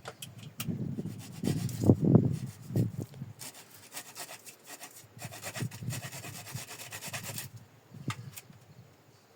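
Hand-work scraping and knocking, then several seconds of steady rubbing that stops, followed by a single sharp click.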